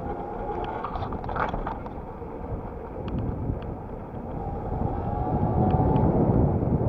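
Wind buffeting the microphone and road noise from a moving electric bicycle, with a few light clicks; the wind grows louder near the end.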